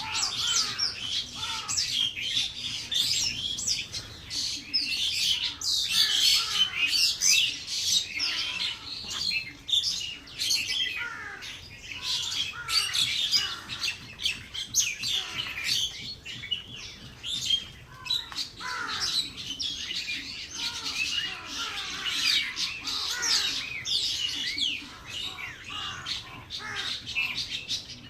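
A flock of small birds chirping together: a dense, continuous chatter of many short, high-pitched overlapping calls.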